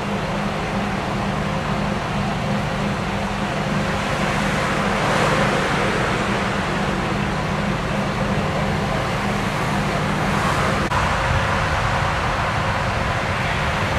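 A vehicle engine running steadily with a low hum. Traffic noise swells twice, about five and ten seconds in, like cars passing.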